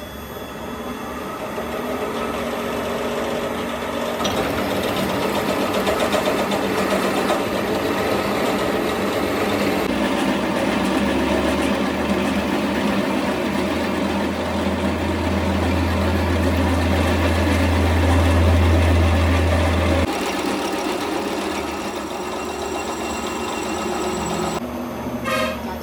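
Machine tool in a metal workshop running steadily, with a deep hum that comes in about ten seconds in and cuts off suddenly about twenty seconds in.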